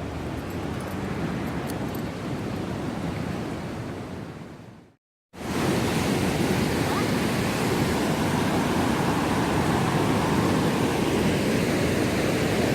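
Steady rushing noise in two stretches, cut off abruptly to silence about five seconds in, then resuming louder.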